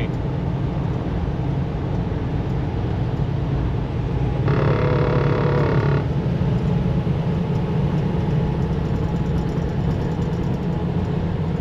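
Steady drone of a semi truck's engine and tyres heard inside the cab. A vehicle horn sounds once, held for about a second and a half, about four and a half seconds in.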